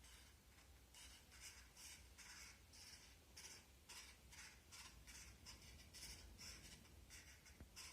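Faint, irregular scratchy rustling of paper and cardboard, a few short strokes a second, as empty matchboxes are handled and worked with needle and thread.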